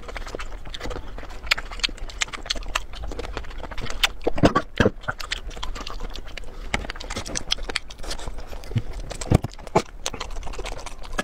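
Close-miked eating sounds of someone chewing: a steady run of small wet clicks and smacks, with a few louder bites about four and a half seconds in and again near nine and a half seconds.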